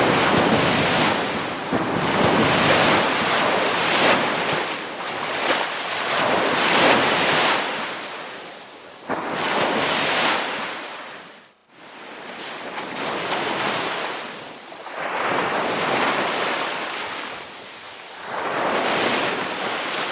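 Ocean surf: waves breaking and washing in, the rush of water swelling and ebbing in several long surges. About halfway through, the sound briefly drops away almost to nothing before the next wave builds.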